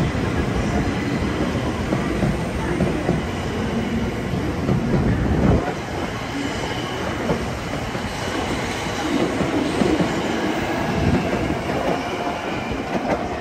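923-series Doctor Yellow Shinkansen inspection train running past along the platform, with the steady noise of wheels on rail. The noise eases about six seconds in and fades near the end as the last car comes by.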